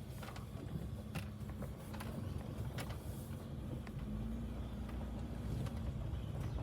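Coachmen Nova 20C camper van driving slowly, a steady low rumble of engine and tyres with scattered small clicks and rattles.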